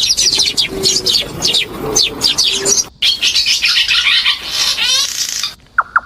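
Many small birds chirping busily in quick, downward-sweeping calls, with a faint low cooing underneath. The chorus breaks off abruptly about three seconds in, resumes, and cuts out again near the end, where a fast, even series of short pulses starts.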